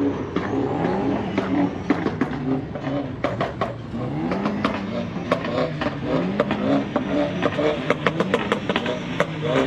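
A car engine being revved repeatedly: the pitch climbs, holds for a second or two, then falls, about three times over. Sharp clicks and pops run through it.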